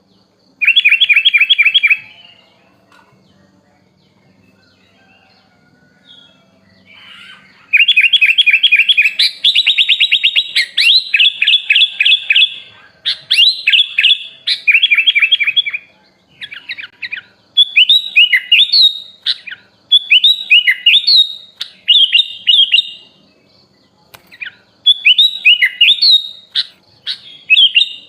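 A kutilang (sooty-headed bulbul) singing loudly in a recorded masteran. It gives a short, fast rattling trill, pauses, then runs into a long string of rapid trills and chirps, and then repeats short swooping whistled phrases about once a second.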